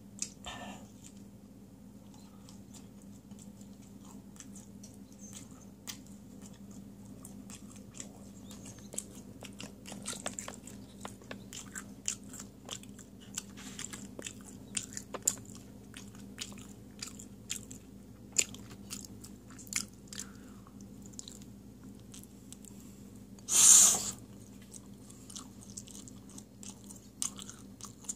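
A person chewing and biting thick-crust square pizza, with many small crunches and wet mouth clicks over a steady low hum. Late on there is one short, loud burst of noise.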